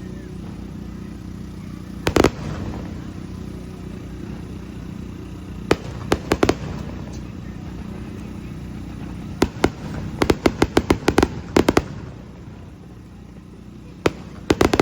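Aerial fireworks bursting: sharp bangs, some single and some in quick clusters, with a rapid run of reports about ten seconds in, over a steady background rumble.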